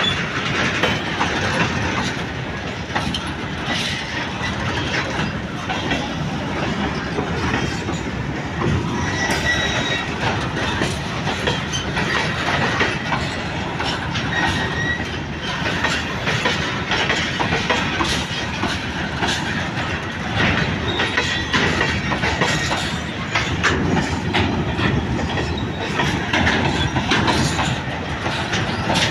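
Freight train's covered hopper wagons rolling past, wheels clattering and knocking steadily over the rails, with brief faint high squeals from the wheels now and then.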